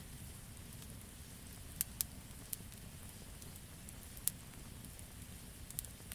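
Campfire burning: sharp pops and crackles of burning wood every second or so, the loudest a little past the middle, over a low steady rumble of the flames.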